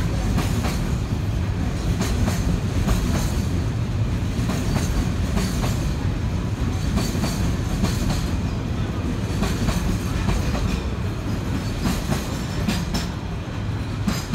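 Container freight train rolling past: a steady low rumble of loaded flat wagons with irregular clicks and clacks of wheels over rail joints.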